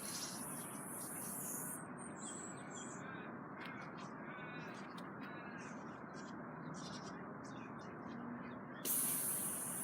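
Aerosol spray-paint can hissing in bursts: one burst fades out about two seconds in, and another starts suddenly near the end and is the loudest sound. Between them a bird calls a few times over a steady outdoor background.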